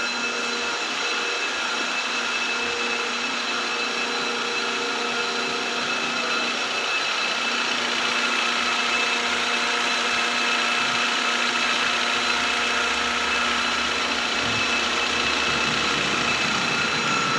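2016 Hyundai Elantra's four-cylinder petrol engine idling steadily, with a steady whine above the running. The engine has just had its oil pump assembly replaced and sludge cleaned out of it.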